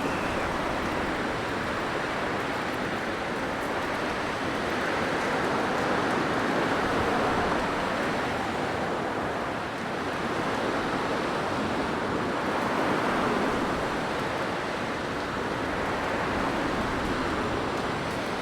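Blizzard wind blowing as a steady rushing noise that swells and eases every few seconds.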